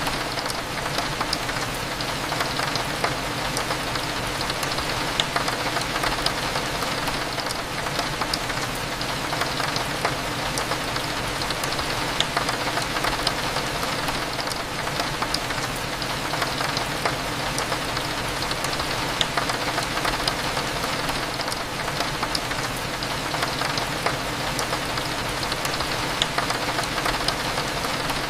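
Steady rain against a window, many small drop ticks over an even hiss, with a low steady café hum underneath.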